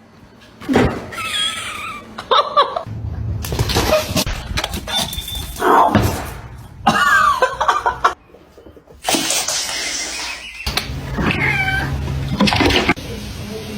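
Cats meowing in several separate short calls, with sudden changes of background noise between them.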